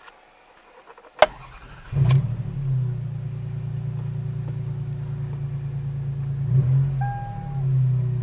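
1MZ-FE 3.0-litre V6 of a 2000 Toyota Harrier being started: a sharp click about a second in, then the engine catches just before two seconds in with a flare of revs and settles into a steady idle. There is a short beep around seven seconds in and a slight rise in revs near the end.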